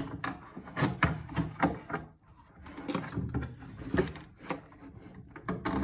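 Irregular knocks and light scrapes as a motherboard is handled and set into a wooden box case.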